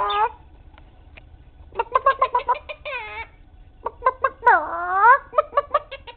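Animal-noise imitations traded between a person and a Quaker parrot (monk parakeet), which mimics and finishes the sounds. There are quick runs of short pitched notes, about ten a second, and a long swooping call that dips and rises again about five seconds in.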